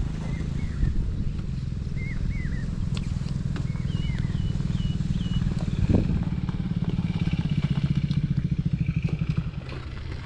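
Triumph Speed 400 motorcycle engine running on a rough off-road track, with a sharp knock about six seconds in and a rapid pulsing in the engine sound for a few seconds before it eases near the end. Birds chirp over it.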